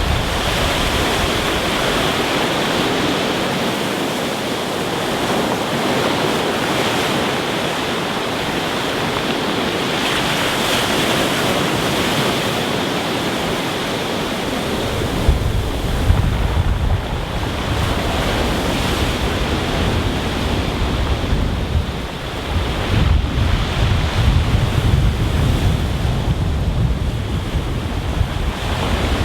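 Rough sea surf breaking and washing over a stony beach in a steady, continuous roar of water. From about halfway, a low rumble of wind buffeting the microphone joins in.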